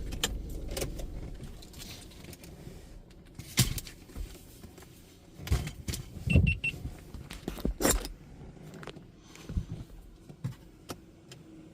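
Scattered knocks and clicks, heard from inside a car cabin, with a quick three-pulse electronic beep about six seconds in.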